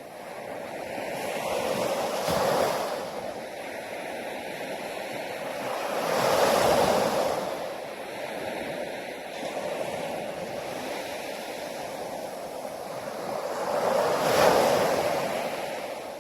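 Ocean waves breaking and washing on a beach, three larger waves cresting about two, six and fourteen seconds in, with steady surf between.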